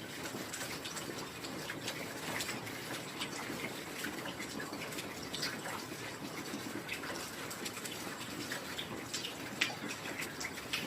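Rain falling steadily: a constant hiss with many separate drops ticking and plinking close by, and one louder drop about nine and a half seconds in.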